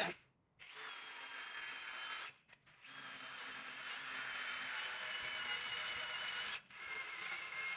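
Small power tool fitted with an abrasive scouring pad, running steadily against metal as it cleans old gasket residue off the engine's sump mating surface. It cuts out briefly twice.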